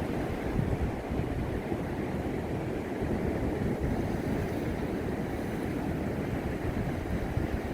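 Beach ambience: waves washing ashore on the Gulf, mixed with wind rumbling on the microphone.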